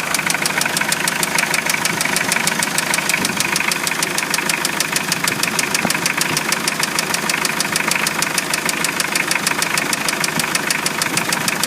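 Mitsubishi 4D56 turbo-diesel engine idling with a steady, rapid, regular knock.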